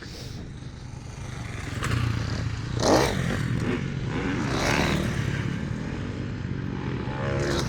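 Motocross bikes running on a dirt track, engines revving. One bike passes close and loud about three seconds in, and another swells past shortly after.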